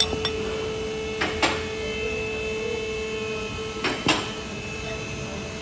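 BMW F48 engine running with a steady whine, broken by two pairs of sharp knocks about two and a half seconds apart: the rattle from the engine side that is a common BMW fault.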